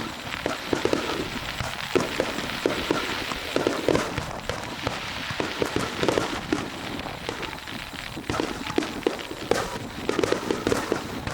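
Fireworks going off: a dense run of irregular sharp pops and crackles, several a second, over a steady hiss.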